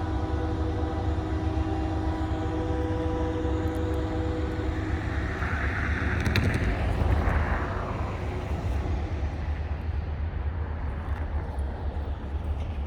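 Diesel locomotive rumbling low and steady while switching in the yard. Steady humming tones run through the first half and stop about five and a half seconds in, then a whooshing swell of noise with a sharp click rises and fades around six to seven seconds in.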